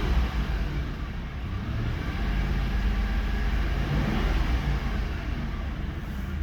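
Ford 4.6L V8 engine of a 2002 F150 running steadily and smoothly, its note briefly rising and falling about four seconds in.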